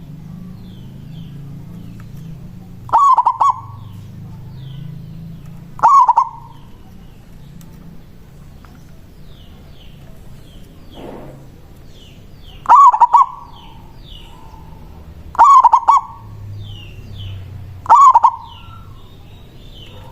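Zebra dove (perkutut) singing its cooing song five times, each phrase a short run of quick rolling notes, with a longer pause in the middle. Faint chirps of small birds sound between the phrases.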